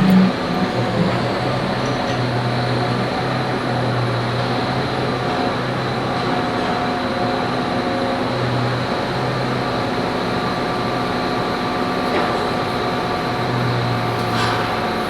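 Engine running steadily, with a low hum that swells and fades in strength, as a machine lifts the air seeder's wing.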